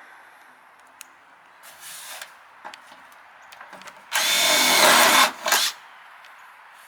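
Power drill boring a hole through a metal downspout: a faint short run, then a loud run of about a second starting around four seconds in, and a brief final burst as it breaks through.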